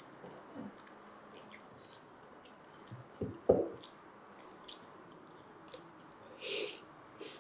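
Close-up eating sounds of grilled chicken shashlik being chewed and bitten: wet, squishy mouth noises and small clicks, a louder knock about three and a half seconds in, and a brief hiss near the end.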